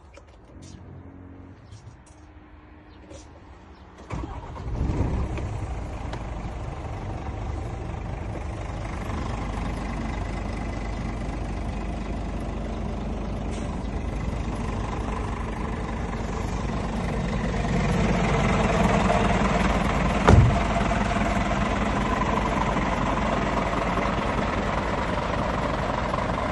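Scania S500 truck's diesel engine starting about four seconds in, flaring briefly and then settling to a steady idle. The engine grows somewhat louder later on, and there is a single sharp knock near the end.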